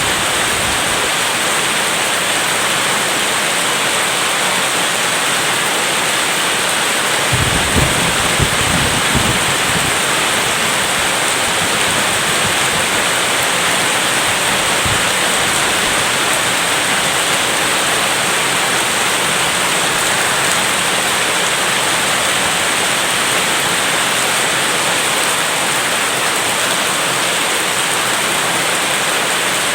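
Steady heavy rain hiss in a thunderstorm, with a short low rumble of thunder lasting about two seconds, roughly a quarter of the way in.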